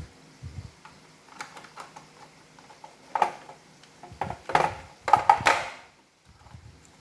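Hard plastic parts of an iRobot Roomba robot vacuum clicking, knocking and rattling as they are handled and fitted together, with a louder run of clacks in the second half.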